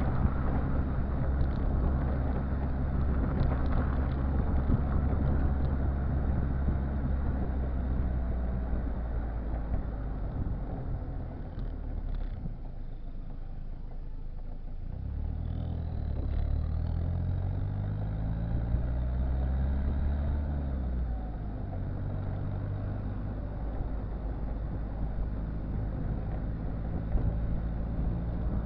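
Citroën Visa's swapped-in XUD7TE four-cylinder turbo diesel heard at the exhaust, running steadily, then revved up about halfway through and dropping back a few seconds later to a steady run.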